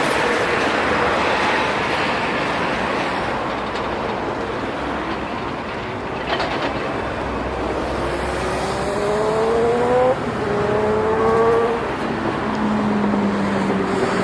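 Steady road-traffic noise, with a motor vehicle accelerating: its engine pitch rises, drops at a gear change about ten seconds in, then rises again.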